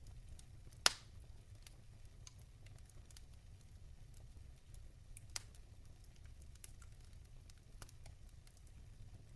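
Wood fire in a fireplace crackling: logs burning with scattered small pops and two louder snaps, about a second in and past the middle, over a low steady rumble.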